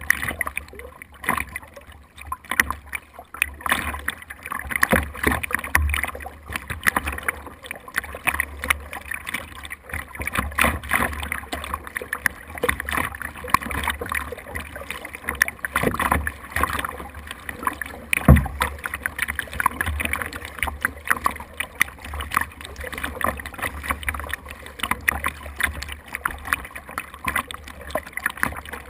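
Water splashing and sloshing around a small boat moving through waves, with a steady low wind rumble on the microphone. One sharp knock comes about 18 seconds in.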